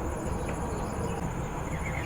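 A steady, high-pitched insect trill over a low rumble, in a gap between the sooty-headed bulbul's calls.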